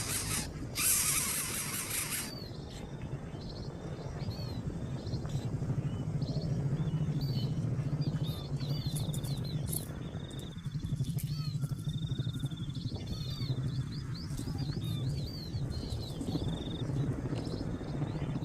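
Small birds chirping: many short, quick chirps with a few brief trills, over a steady low hum. A burst of rustling noise fills the first two seconds.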